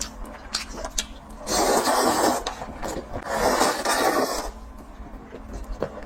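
Close-miked eating sounds: small mouth clicks throughout, with two louder, grainy chewing stretches, one about a second and a half in and one from about three to four and a half seconds in.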